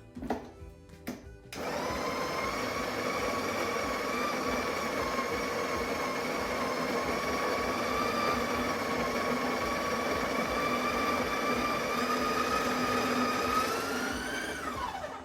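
Breville Barista Express's built-in conical burr grinder grinding coffee beans, a steady motor whine starting about a second and a half in. Near the end the pitch rises as the hopper runs out of beans and the unloaded motor speeds up, then winds down.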